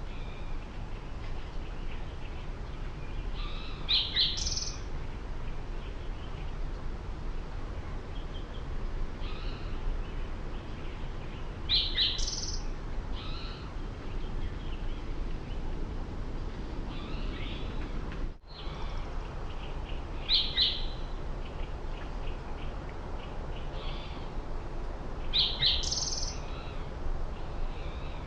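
Small songbirds calling outdoors: short high chirps in clusters every several seconds, with fainter chirps between, over a steady low background rumble.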